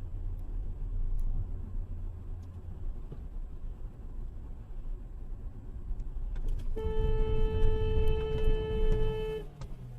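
Low road and engine rumble from a moving car, then a car horn sounding one steady held note for about two and a half seconds near the end.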